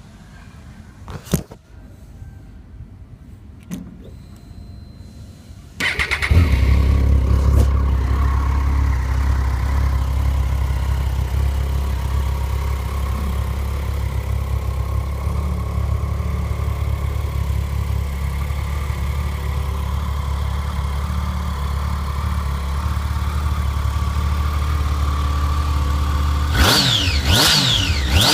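Triumph Street Triple 675's three-cylinder engine, on its standard exhausts, starting about six seconds in after a few clicks, then idling steadily. Near the end come a few quick throttle blips, rising and falling in pitch.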